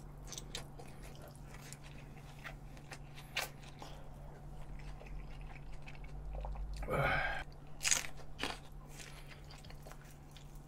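A person chewing and biting grilled Iberico pork close to the microphone: wet mouth clicks and small crunches. There is a brief, louder mouth sound about seven seconds in.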